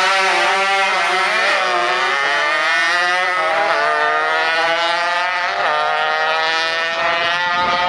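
Motorcycle engine accelerating hard on a drag run, its pitch climbing and then dropping sharply at each upshift, with three gear changes before it pulls on high toward the end.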